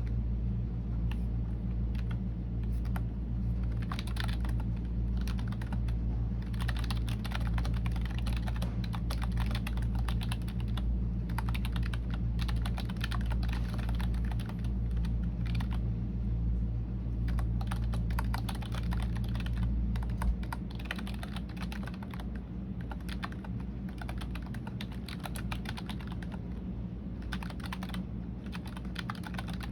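Continuous typing on a computer keyboard: rapid, irregular keystroke clicks. Underneath runs a steady low hum that becomes quieter about two-thirds of the way through.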